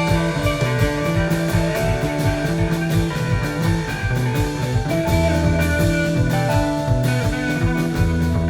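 Live rock band playing, with electric guitar over a steady drum-kit beat.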